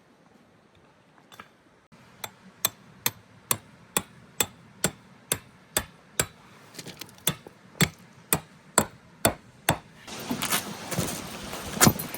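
A steady series of sharp knocks, about two a second, followed near the end by a louder rushing noise with a few heavier knocks.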